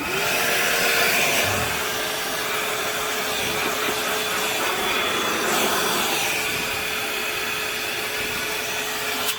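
Milwaukee Fuel brushless wet/dry shop vacuum spinning up and running steadily, a motor whine over rushing airflow. It runs with the hose held up to draw the last of the liquid out of the hose.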